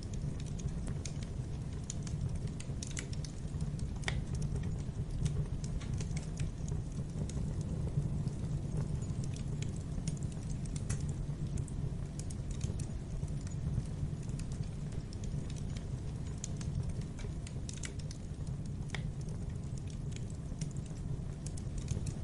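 Wood fire burning in a fireplace: a steady low rumble of flames with scattered, irregular crackles and pops.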